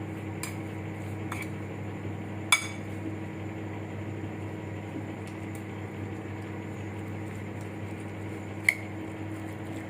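A spoon clinking against a bowl a few times while chopped vegetables are stirred with mayonnaise and spices, the loudest clink about two and a half seconds in and another near the end. A steady low hum runs underneath from the convection microwave oven preheating.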